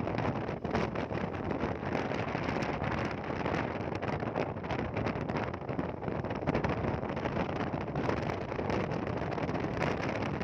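Wind buffeting the microphone on a moving motorbike, a steady dense rush with the bike's running sound buried under it.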